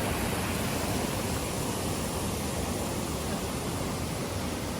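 Steady rushing roar of the Ouzoud waterfall's falling water, an even noise with no breaks.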